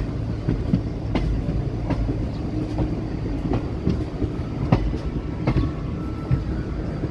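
Indian Railways express passenger coach running along the track: a steady low rumble with sharp wheel clicks over rail joints roughly every second.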